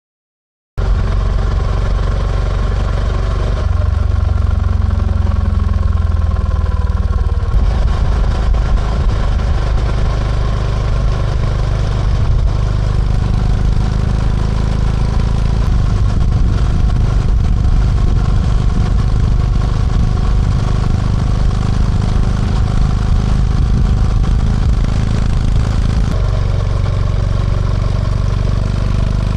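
Honda GB350C's air-cooled single-cylinder engine running, cutting in abruptly just under a second in and holding a steady note that steps in pitch a few seconds in, again around seven seconds, and near the end.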